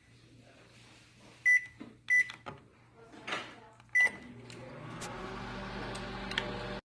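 Microwave oven keypad beeping three times as the time is entered and started. About a second after the last beep the microwave starts running with a steady hum.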